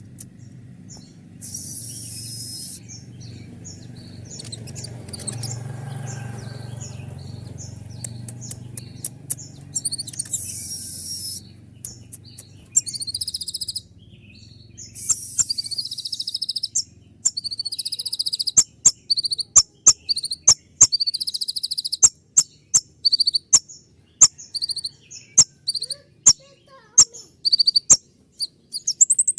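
Kolibri ninja sunbird calling in sharp, high-pitched chirps, with longer bursts of song at first and then a fast series of short, clipped calls in the second half.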